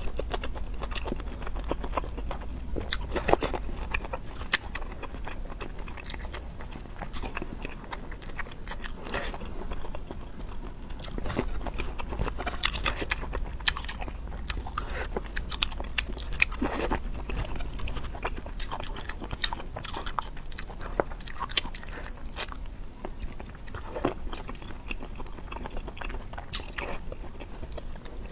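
Close-miked biting and chewing of grilled sausages, with many irregular sharp mouth clicks over a low steady hum.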